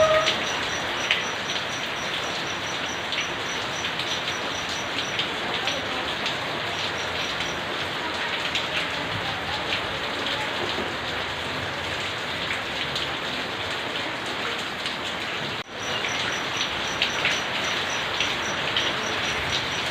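Steady rain falling and pattering on surfaces, with many single drops ticking. The sound cuts out for an instant about three-quarters of the way through.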